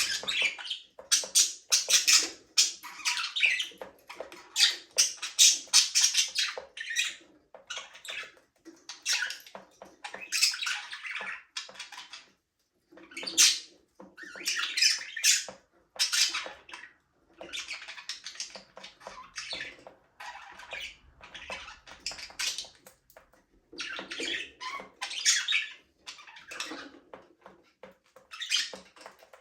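Several budgerigars chirping and chattering in quick, scratchy bursts with short gaps between them.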